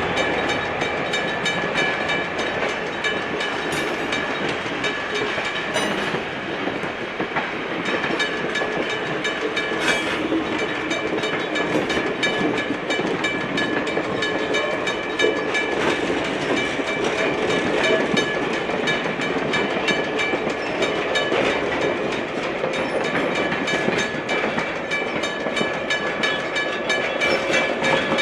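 Passenger train led by an EMD GP9 diesel locomotive rolling along the track, wheels clicking over the rails, with a steady high-pitched tone above the rumble.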